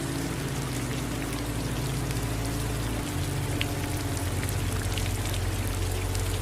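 Steady rain with individual drops tapping close by, blended with softly running water. A low steady hum underneath shifts in pitch about halfway through.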